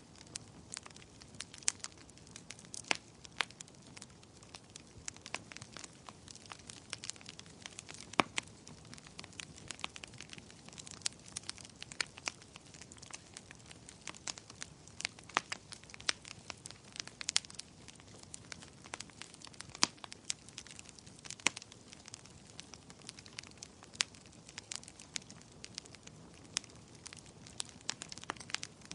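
Fire in a fireplace crackling, with frequent irregular sharp pops over a low steady hiss.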